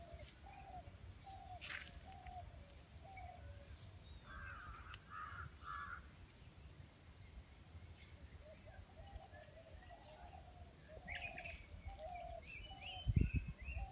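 Birds calling in the background: a run of short repeated calls, three harsher calls about four to six seconds in, and a few higher chirps later. A low rumble comes in near the end.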